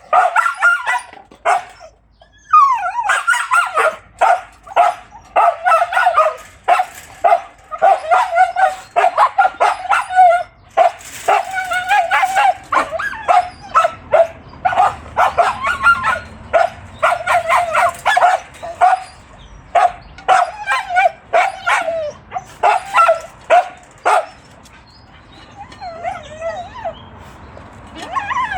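Dogs whining, yipping and barking in excited greeting, a near-constant run of high, wavering cries. They quieten for the last few seconds.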